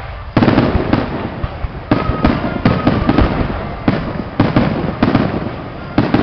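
Fireworks display: a rapid series of sharp bangs from bursting fireworks, about two a second, each trailing off briefly, starting about half a second in.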